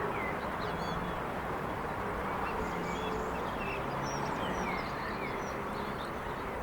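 Several small birds chirping and twittering over a steady hum of distant traffic.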